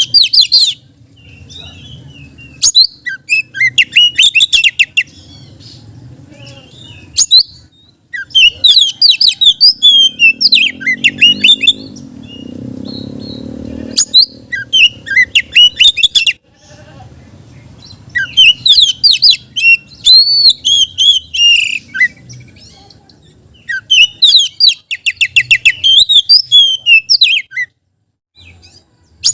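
Oriental magpie-robin (kacer) singing loudly in about seven bursts of rapid high whistles and trills, a few seconds apart. Its song is loaded with mimicked phrases. A faint low hum runs underneath and swells for a couple of seconds in the middle.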